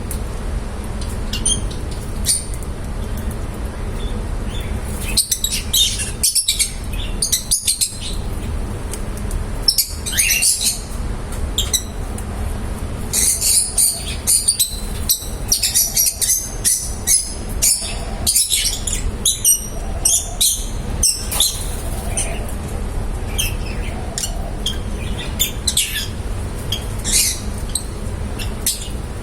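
Lovebirds chirping, many short high chirps, busiest in the middle of the stretch, over a steady low background hum.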